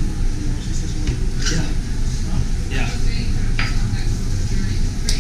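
Busy shop background of voices, with short scrapes and clinks of fudge being worked on a table.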